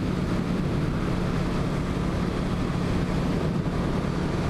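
1986 Yamaha V-Max's 1,198 cc V4 engine running at a steady cruising pace, heard from the rider's seat. Wind rushes over the microphone.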